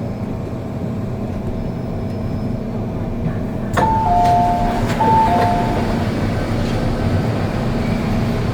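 MTR M-Train running with a steady rumble and hum. About four seconds in, a click is followed by a two-note falling chime played twice, the on-board chime that comes before a passenger announcement.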